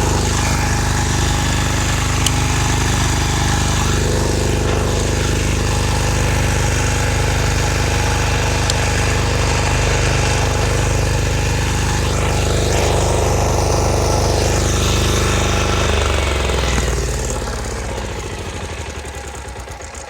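Engine of a two-wheel walking tractor with a rear tine tiller, running steadily with an even low beat. About sixteen seconds in its speed drops, and it winds down and fades over the last few seconds.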